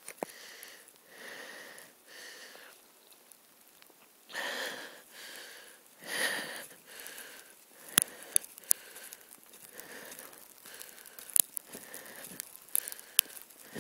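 Footsteps crunching and crackling in snow: soft scuffing swells at first, then a run of sharp, irregular crunches from about eight seconds in.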